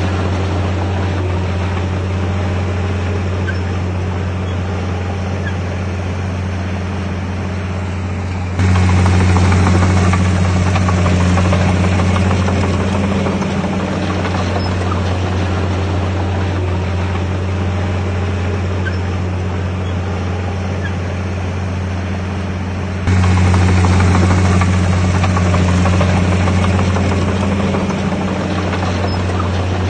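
Komatsu D51PX bulldozer's diesel engine running steadily under load with a deep, even drone. The loudness jumps abruptly twice, about 9 and 23 seconds in, and then eases back down.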